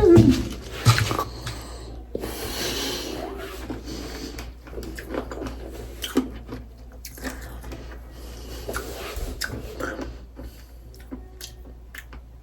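A person chewing crunchy sour candy, with scattered small crunches and clicks.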